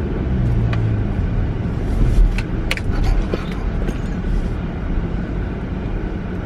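Steady low rumble of road noise from a moving car, heard from inside the cabin, with a few faint clicks between about two and three seconds in.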